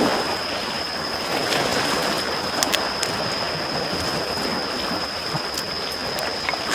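Small waves washing gently against the shore under a campfire, with a few sharp crackles and pops from the burning wood. A thin steady high tone sits under it.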